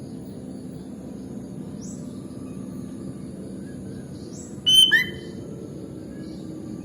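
Sooty-headed bulbul giving one short, loud call about two-thirds of the way in, over a steady background hiss with faint high steady tones and a few faint, brief rising chirps.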